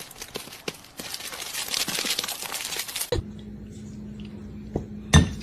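Rustling, crackling noise full of small clicks, like crinkling material being handled, which stops abruptly about three seconds in. A steady low hum follows, with one sharp knock near the end.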